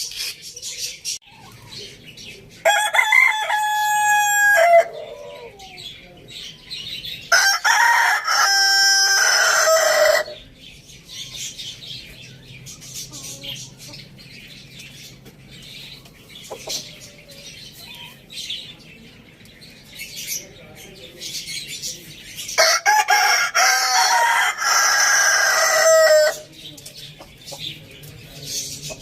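A rooster crowing three times, each crow a long pitched call of two to three seconds, the first ending on a falling pitch; there are long gaps between the second and third crows. Faint bird chirps and clucks carry on between the crows.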